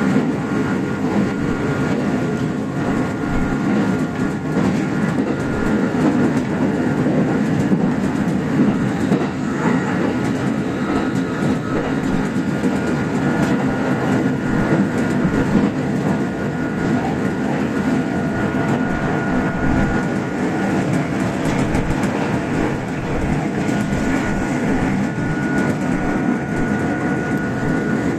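Kintetsu express electric train running at speed, heard from inside the leading car: a steady rumble of wheels on track with clickety-clack over the rail joints and a faint steady high whine.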